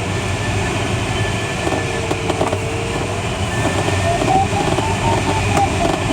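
Steady rush of airflow in a glider cockpit with the electronic variometer's audio: a steady tone that wavers slightly, then from about four seconds in a run of short beeps climbing in pitch, the vario signalling that the glider has found ridge lift.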